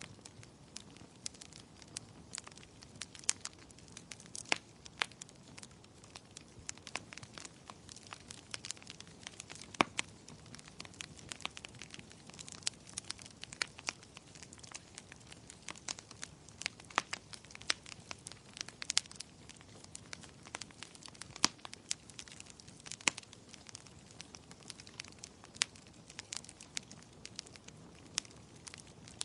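Wood fire crackling in a fireplace: irregular sharp pops and snaps, a few a second, over a low steady hiss of burning.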